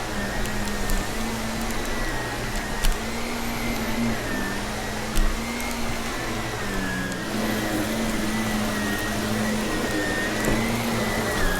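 Vacuum cleaner running with a steady motor hum that wavers slightly in pitch, and a few sharp crunching ticks as grit and debris are sucked up.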